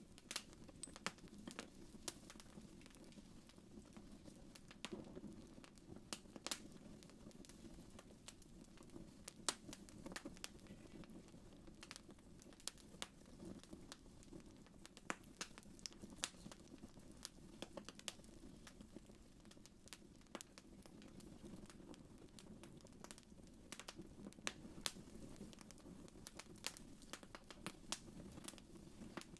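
Fireplace fire crackling quietly: scattered, irregular sharp snaps over a soft low rumble.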